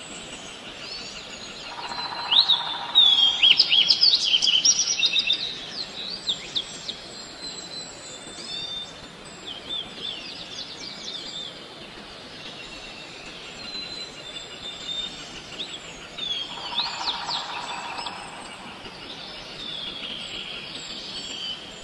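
Birds chirping and calling in quick high-pitched runs, busiest a couple of seconds in and again about three-quarters through, over a steady outdoor hiss.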